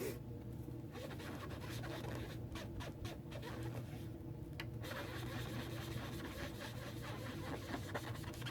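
A sponge rubbing ink onto cardstock, a soft scratchy rubbing that comes and goes, over a steady low hum.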